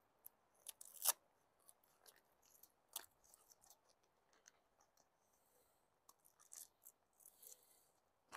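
Faint, scattered crackles and clicks of a nylon tent fly sheet and its Velcro tabs being handled, with two sharper ticks about a second in and about three seconds in.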